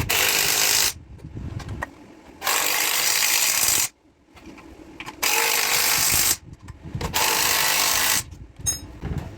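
A power tool driving the engine mount bolts home, running in four bursts of about a second each with short pauses between.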